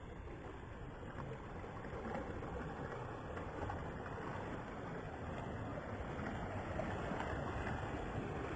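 Rough sea: a steady rush of waves and water around a ship under way, slowly growing louder.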